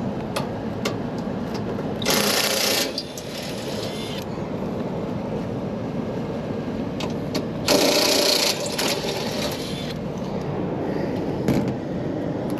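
Rooftop air-conditioning unit running steadily, with scattered clicks and two short, loud rushes of noise, one about two seconds in and one about eight seconds in.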